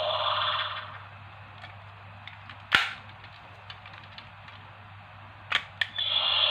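Bootleg DX Spark Lens toy: its tinny electronic sound effect from a small speaker stops about a second in. A single sharp plastic click comes near the middle, two quick clicks follow near the end, and then the tinny sound starts again.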